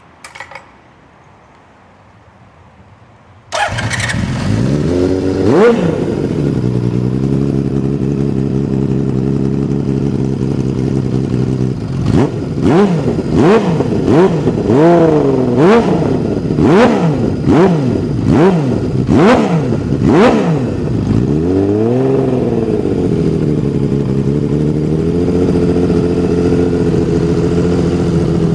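Honda CBX 1050 motorcycle's air-cooled inline six-cylinder engine. After a few faint clicks it starts abruptly, about three and a half seconds in, and settles to a steady idle. It is revved once, then blipped about eight times in quick succession, given one bigger rev, and returns to idle.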